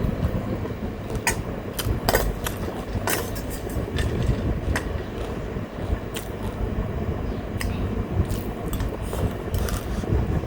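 Close-miked eating sounds: chewing with scattered sharp clicks of cutlery on a plate, over a steady fan hum.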